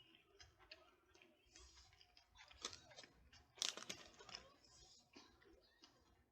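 A person chewing a burger and fries close to the microphone: small wet mouth clicks and crunches, with a louder crunch about three and a half seconds in.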